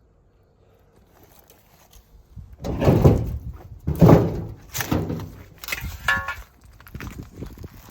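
Sheet-metal access panel on the back of an International Harvester MetroMite van being handled: after a quiet start, four dull thunks about a second apart, then a brief squeak and a few lighter knocks.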